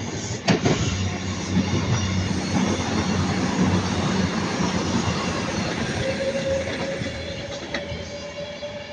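Avanti West Coast Class 390 Pendolino electric train running past on the line: a loud rush of wheels on rail over a low steady hum. About six seconds in a thin steady whine joins, and the sound then begins to fade.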